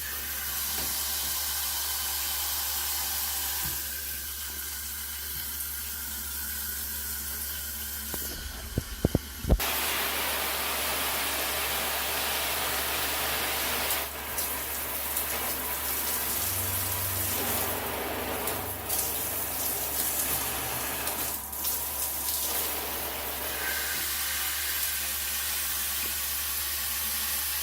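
Water spraying from a ShowerMaxx handheld shower head, a steady hiss whose character changes several times as the spray setting is switched, ending on a lower-pressure setting. A few sharp knocks come about nine seconds in.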